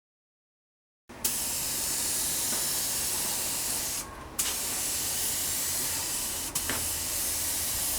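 A pressurised spray hissing steadily. It starts abruptly about a second in, breaks off for a moment around the middle, then starts again.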